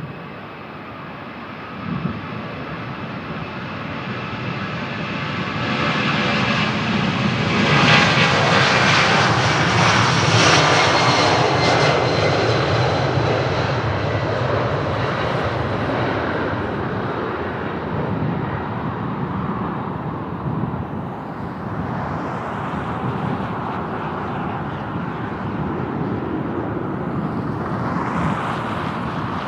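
Jet airliner passing by, its engine noise swelling to a peak about eight to eleven seconds in and then settling into a steady rumble. A high engine whine is heard while it approaches and fades out after the loudest point.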